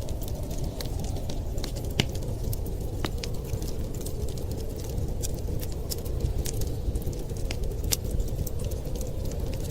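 Wood fire crackling, with irregular sharp pops and snaps, the loudest about two seconds in, over a steady low rumble of wind.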